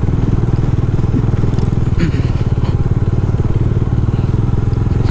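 Bajaj Dominar motorcycle's single-cylinder engine running steadily at low speed on a rough dirt trail, with a brief crunch about two seconds in.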